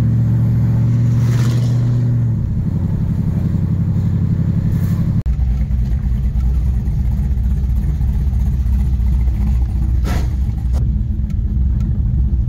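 Straight-piped Holden V8, heard from inside the cabin, running at low speed. Its note steps down about two seconds in, and again about five seconds in to a deep low burble as the car slows to a crawl.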